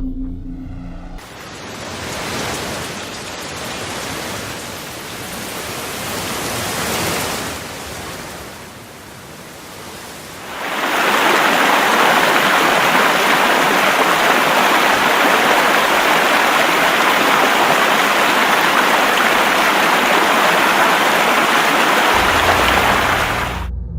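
Rushing water: a noisy rush that swells and fades over the first ten seconds, then a louder, steady rush from about eleven seconds in that cuts off abruptly just before the end.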